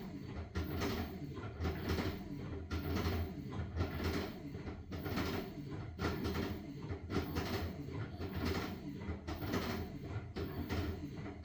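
LG washing machine running with a load of blankets: a swish repeating about every three-quarters of a second as the drum moves the wet load, over a steady low motor hum.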